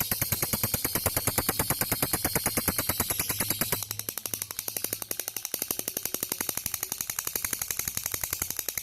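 Lovebird giving its long 'ngekek' chatter: a fast, unbroken run of sharp repeated notes, about a dozen a second, a little softer after about four seconds.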